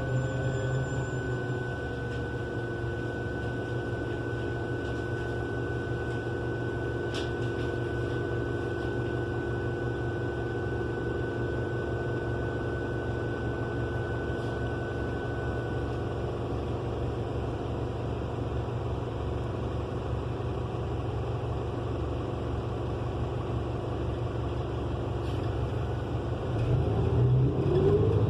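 Cummins Westport L9N natural-gas engine of a New Flyer XN35 transit bus running steadily, heard inside the cabin with no HVAC noise over it, a thin steady whine fading out about halfway. Near the end the engine gets louder and its pitch climbs as the bus accelerates.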